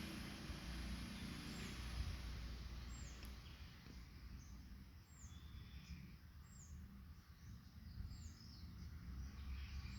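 A small bird's short, very high chirp, repeated roughly once a second, over faint low background rumble.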